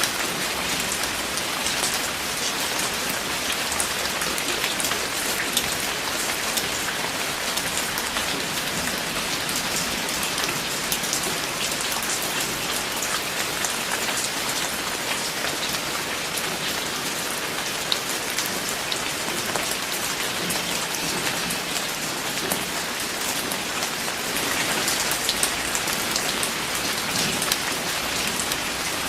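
Steady rain falling on a surface, an even hiss with many small drop ticks and a few louder drip hits.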